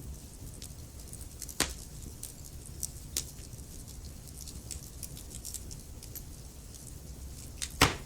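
Wood fire crackling: sharp pops about a second and a half in and about three seconds in, small ticks between, and the loudest, a double pop, near the end, over a low steady rumble.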